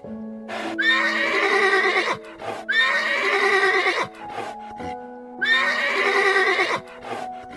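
A horse whinnies three times, each call about a second and a half long with a quavering pitch, over soft background piano music.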